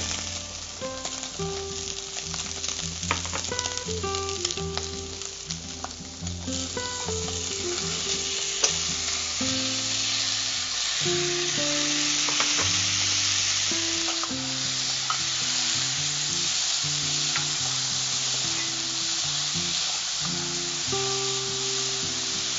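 Chopped onion and tomato with boiled potato pieces frying in ghee in a nonstick pan, sizzling steadily while a wooden spatula stirs them. The sizzle grows louder about six seconds in.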